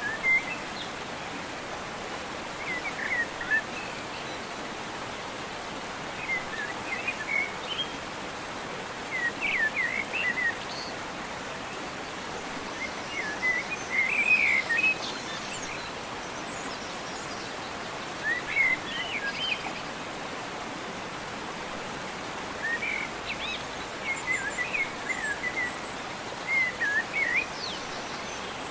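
Songbirds singing in short chirping phrases every few seconds over a steady rushing hiss of outdoor background noise.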